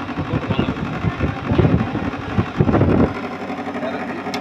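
Window air conditioner running with its compressor and fan on, a steady mechanical hum. For about two and a half seconds in the middle a loud, irregular low rumbling lies over it, stopping abruptly about three seconds in.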